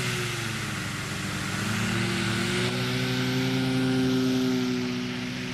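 Brushless electric motor of a large foam RC plane (3548 1100kv) spinning a propeller under power for a thrust test, a steady whine with rushing propeller noise. The pitch wavers, rising slightly through the middle and easing off near the end.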